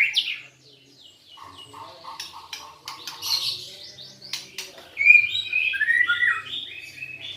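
White-rumped shama singing: a brief whistled phrase right at the start, quieter notes in the middle, and a longer phrase of falling and rising whistles about five seconds in, with short clicks between. It is a wild-caught bird that has begun to sing after six months in care.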